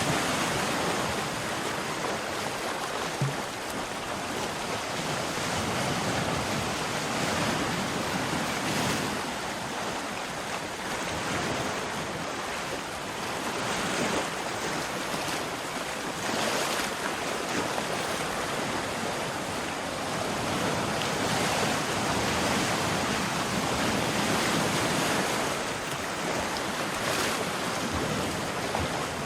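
Sea waves breaking and washing on the shore, a steady surf rush that swells and eases every few seconds. A brief click about three seconds in.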